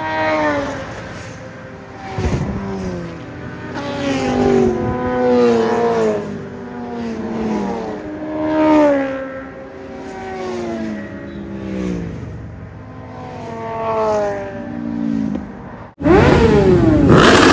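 Several sport bike engines revving and accelerating one after another, each note rising and then falling in pitch, every second or two. About sixteen seconds in the sound cuts sharply to a louder engine pulling hard.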